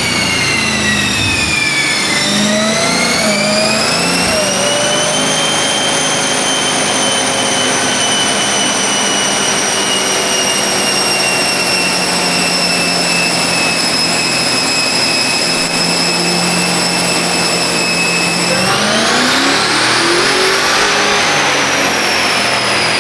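Supercharger whine from a Dodge Challenger, a high-pitched whine that follows engine speed. It dips at first, climbs and holds steady, then rises sharply near the end as the car accelerates hard and engine and exhaust noise swell.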